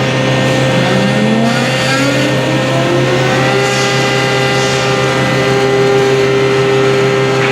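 CNC router spindle spinning up: a whine that rises in pitch from about a second in and then holds steady at speed, over a constant low hum.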